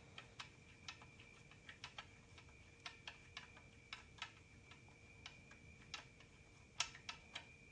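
Hand ratchet with a socket clicking as it snugs a connecting-rod cap bolt, a quiet irregular run of clicks about two to three a second.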